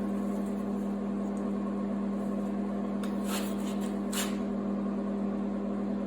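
Stick welder switched on and humming steadily, set to 105 amps for 1/8-inch 6011 rod, with a couple of faint clicks midway.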